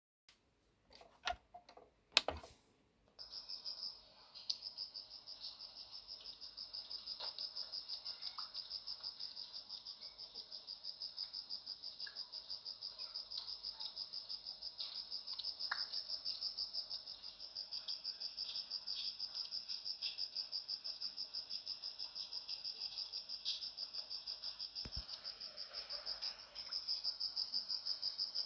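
Crickets or similar insects chirping in a steady, even pulsing rhythm of about three chirps a second, after a few sharp clicks and a knock in the first two seconds.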